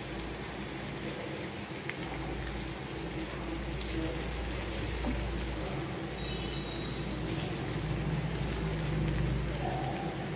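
Raw banana slices sizzling as they shallow-fry in oil in a steel pan, a steady crackling hiss. A spatula scrapes and taps against the pan a few times as the slices are spread out.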